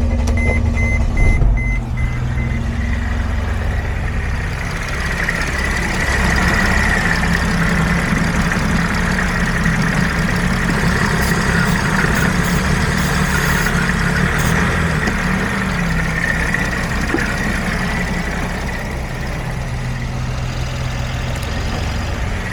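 Mercedes Sprinter 3.0 L V6 diesel (OM642) running steadily at low revs, with a thin, steady high tone above the engine through most of it.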